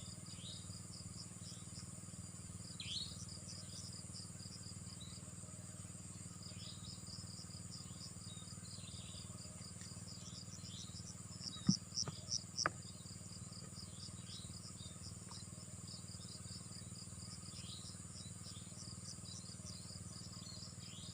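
Crickets and other insects chirping steadily in a rapid pulsing trill over a constant high buzz, with a few short falling chirps. About halfway through comes a quick run of four sharp clicks or knocks within about a second.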